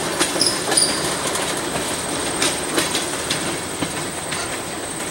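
Freight cars rolling past on steel wheels, with irregular clicks over the rail joints and a steady rumble, fading slightly as the last tank car moves away.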